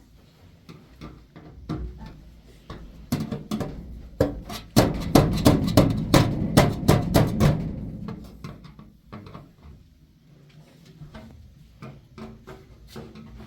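A rapid run of sharp knocks or strikes, about four or five a second, loudest in the middle, over a low rumble.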